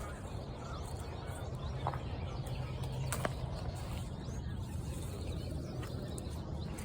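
Outdoor background: a steady low rumble with faint bird calls and a couple of light ticks.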